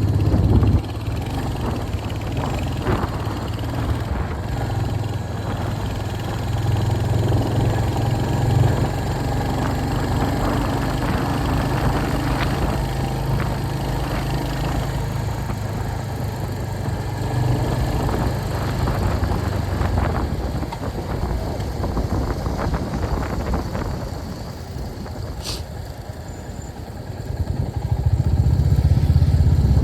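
Royal Enfield Hunter 350's single-cylinder engine running as the bike is ridden, its note rising and falling with the throttle. It eases off a few seconds before the end, then pulls harder again.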